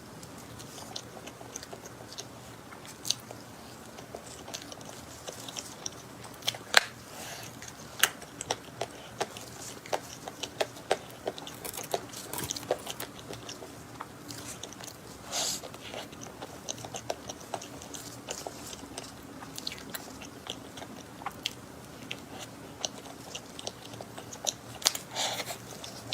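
A person eating cream cake close to the microphone: soft, wet chewing with many sharp mouth smacks and clicks, and a few louder bites.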